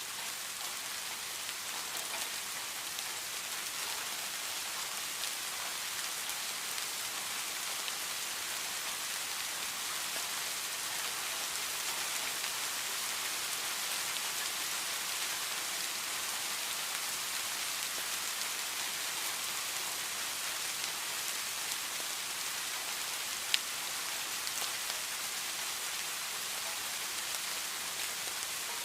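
Steady rain falling, an even hiss made of many small drops hitting a surface, with one sharper drop or tap landing about 23 seconds in.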